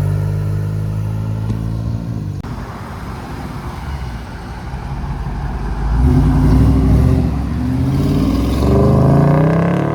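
Car engine running, growing louder about six seconds in and revving with rising pitch near the end.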